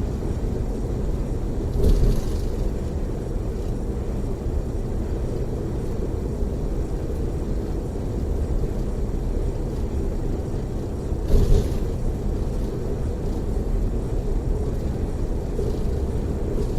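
Steady low road and engine rumble inside a tour coach cruising on a freeway. Two brief louder swells of noise come about two seconds in and again about eleven seconds in.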